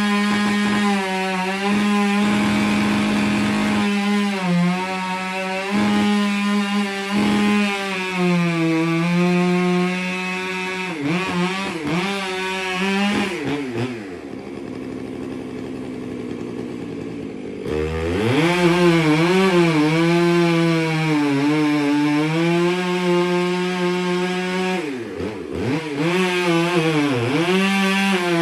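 Chainsaw running at high revs as it cuts a large tree trunk, its pitch sagging and recovering again and again. For a few seconds about halfway it drops back quieter and lower before revving up again.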